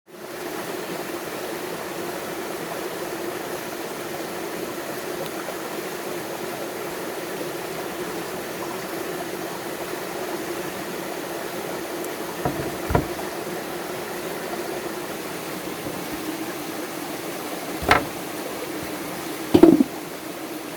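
Steady rush of flowing water, with a few sharp knocks: a pair about twelve seconds in, another near the end, and the loudest just before the end.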